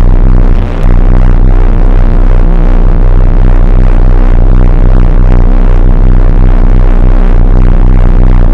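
Loud pulsing, wobbling electronic sound from a speaker: a dense stack of low pitches that holds steady, with a brief dip in loudness about half a second in.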